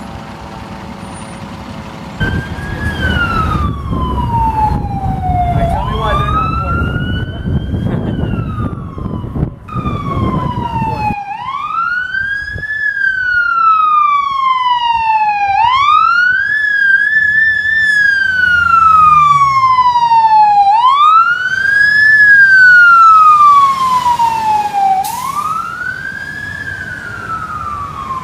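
Fire truck's siren sounding a slow wail, its pitch rising and falling about every five seconds. A heavy engine rumble runs under it for roughly the first ten seconds.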